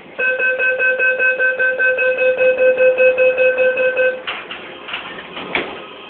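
Subway train's door-closing warning: a rapid electronic beeping, about five beeps a second, for about four seconds, followed by a few knocks as the doors shut.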